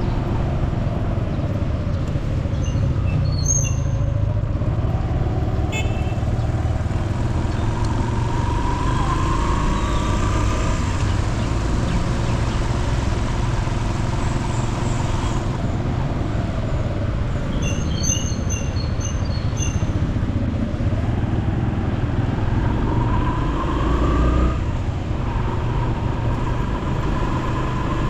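A motor vehicle running on the road, its engine pitch rising twice as it speeds up, over a steady low road rumble, with a few short high chirps.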